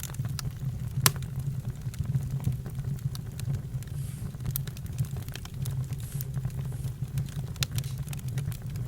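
Campfire crackling: a steady low rumble of burning with scattered sharp pops and snaps, the loudest pop about a second in.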